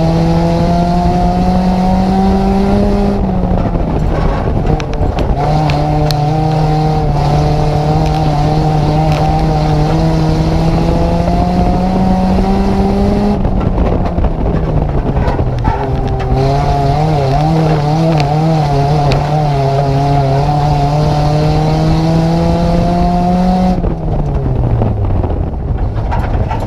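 Nissan Micra race car's engine heard from inside the car, revs slowly climbing and then dropping off sharply as the driver lifts, three times, with road and wind roar; near the end the revs fall away further.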